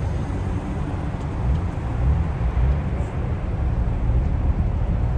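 Car engines idling with a low, steady rumble that grows a little louder about two seconds in.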